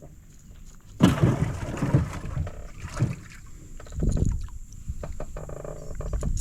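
Water splashing with knocks and bumps in a small fishing boat: a sudden loud splash about a second in, then several smaller splashes and knocks.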